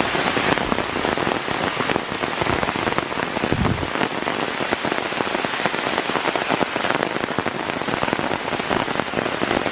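Steady thunderstorm rain, a dense even hiss made of many individual drop hits close to the microphone.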